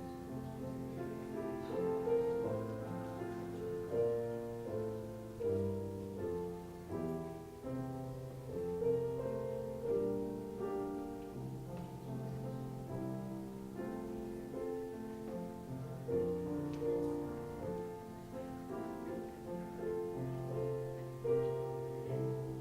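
Slow instrumental piano music: held chords and a melody, each note struck and fading.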